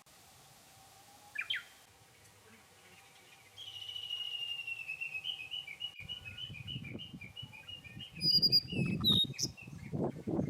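A songbird singing outdoors: a short chirp, then a long song of quick repeated notes that drifts slowly lower in pitch. Near the end, louder rustling and knocking sounds join it.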